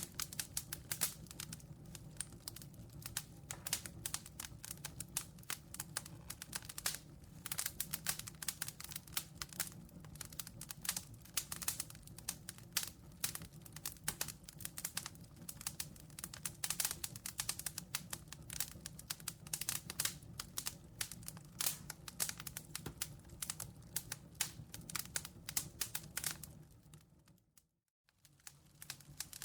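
Campfire crackling: dense, irregular pops and snaps of burning wood over a low steady background. Near the end the sound fades out to silence for about a second, then comes back in.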